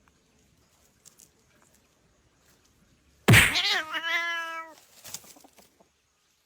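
Domestic cat meowing once: a single loud call of about a second and a half that starts suddenly about three seconds in, dips slightly in pitch, then holds steady before stopping.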